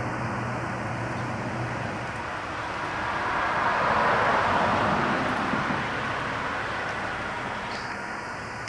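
A vehicle passing by: a rushing noise that rises, is loudest about four seconds in, then fades away.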